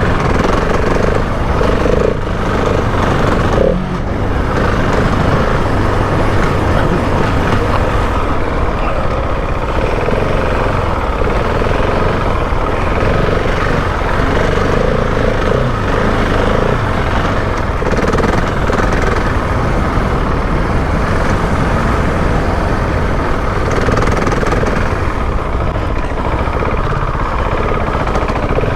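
Husqvarna 701 Enduro's single-cylinder four-stroke engine running under way, loud and steady with little change in pitch.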